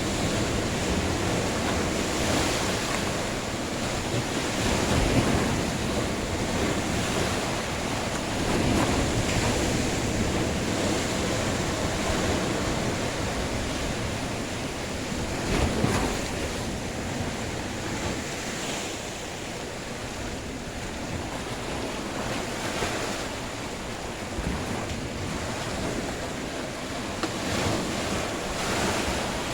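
Sea waves washing onto the shore, a steady rush that swells and ebbs as each wave comes in, the strongest surge about halfway through. Wind buffets the microphone.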